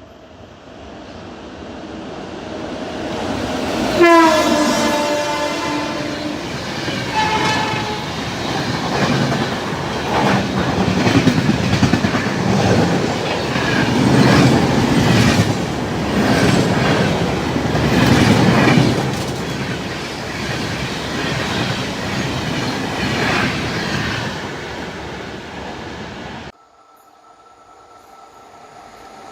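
Express train passing at speed. About four seconds in the locomotive's horn sounds, its pitch dropping as it goes by. The wheels then clatter over the rail joints, loudest midway, until the sound cuts off abruptly near the end.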